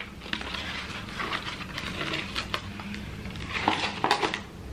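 A person chewing food close to the microphone: soft, irregular mouth smacks and small clicks.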